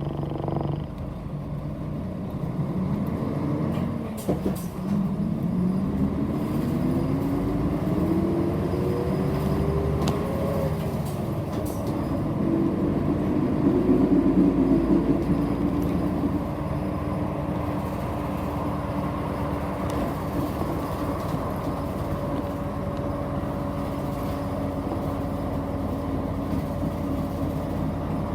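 City bus engine heard from inside the cabin, pulling away and accelerating. Its pitch rises through two gears in the first ten seconds or so, then it runs at a steady cruising hum.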